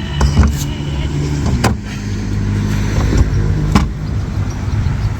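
A steady low engine hum, over which come a few sharp metal knocks as crowbars pry at a stuck sterndrive gimbal housing.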